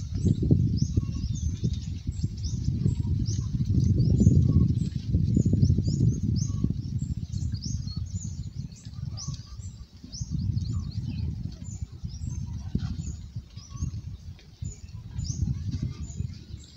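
Small birds chirping over and over in short, quick falling calls, with a low rumbling noise underneath that is loudest about four seconds in and eases in the second half.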